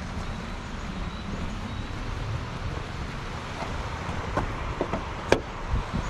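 Steady rush of a mountain stream's flowing water, with wind buffeting the microphone. A few sharp clicks come in the last two seconds.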